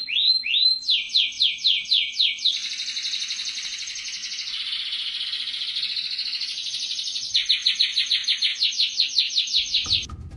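A bird singing: three quick rising whistles, then fast repeated notes, a long unbroken trill through the middle, and fast repeated notes again near the end.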